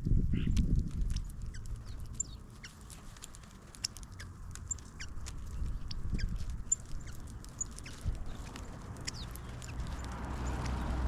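Several small birds chirping in short, quick, high notes, over a low rumble that swells near the end.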